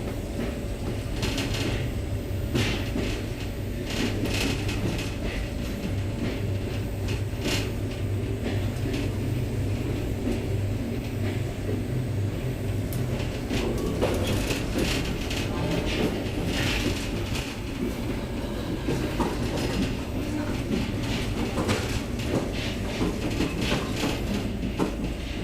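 Trans-Siberian train carriage running along the track, heard from inside: a steady low rumble with irregular clicks and rattles from the wheels and the carriage.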